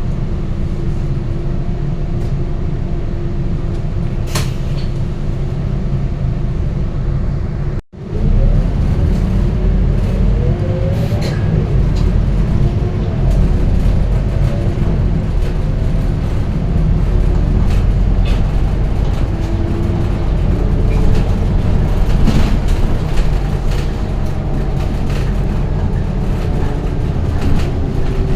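Scania K230UB city bus running: steady engine and road noise, with a sudden break a little before 8 seconds in. After the break it is louder, with the engine note rising and falling as the bus pulls away and gets under way, and a few sharp clicks or rattles.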